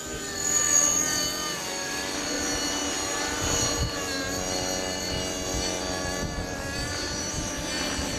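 Align T-Rex 500 radio-controlled helicopter in flight: a steady whine from the motor and gears over the rotor noise, its pitch wavering gently up and down as the throttle and load change.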